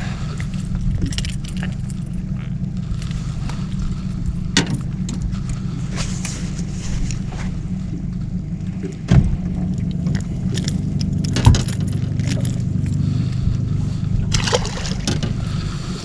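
A boat's motor running steadily with a low hum, with a few sharp knocks and clatters about four and a half, nine and eleven and a half seconds in.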